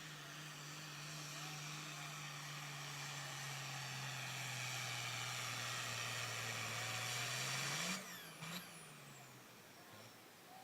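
Turbocharged diesel pulling tractor's engine running hard under load during a pull, with a strong turbo and exhaust hiss, its pitch slowly sagging as the load builds and its loudness rising. About eight seconds in it is cut off suddenly, followed by one short rev that quickly dies away.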